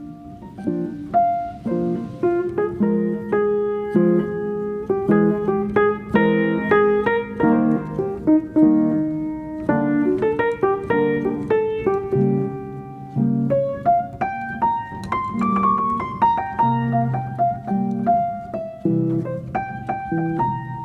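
Calm piano music: a continuous flow of struck single notes and chords.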